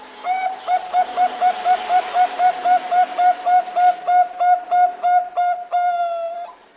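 Bangkok-type zebra dove (perkutut) calling: a quick run of about twenty short, clipped notes at about four a second, ending in one longer drawn-out note that breaks off abruptly.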